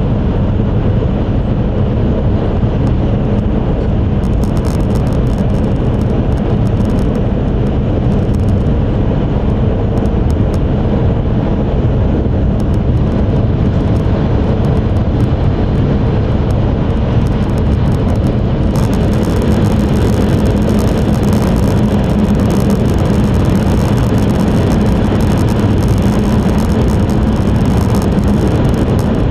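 Steady low rumble and rushing noise of an E5 series Shinkansen heard inside the passenger cabin while the train runs at speed. About two-thirds of the way through, a brighter hiss joins in and stays.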